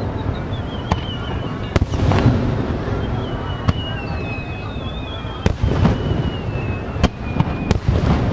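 Aerial fireworks shells bursting in a display: sharp bangs several times over a continuous low boom, with high whistling tones gliding slowly downward through most of the stretch.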